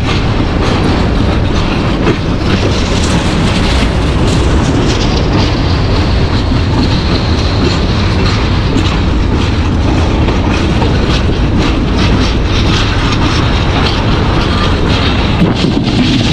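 Banalata Express passenger train running at speed: a steady loud rumble of the coach, with wheels clattering over the rail joints throughout.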